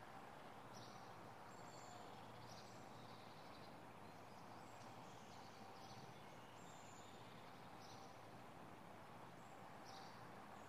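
Faint outdoor ambience: a steady low background hiss, with birds chirping in short high calls about once a second.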